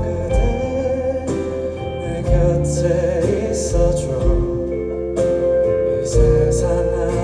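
Live band playing a slow Korean pop ballad, with bass, drums and cymbal crashes under held melody notes and some singing.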